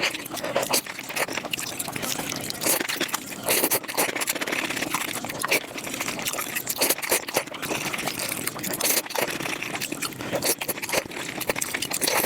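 Close-miked mukbang eating sounds sped up five times: rapid, dense chewing, smacking and slurping, heard as a continuous crackle of quick wet clicks.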